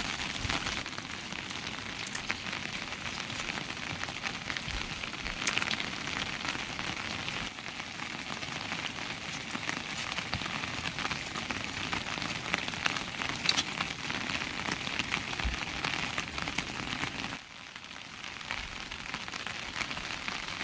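Steady rain falling, with many separate drop ticks close by; the rain dips in level for a moment near the end.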